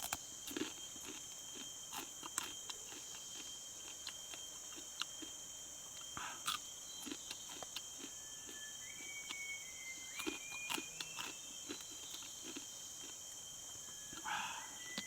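A person chewing and crunching crab, scattered small cracks and crackles of shell between bites. A steady high insect drone runs underneath.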